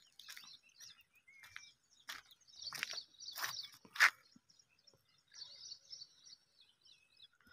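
Faint small birds chirping, with a few soft knocks or rustles in the middle, the sharpest about four seconds in.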